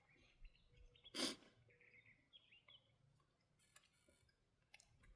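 Quiet eating sounds: faint clicks of chewing and utensils, with one short hissy noise, like a breath or sniff, about a second in.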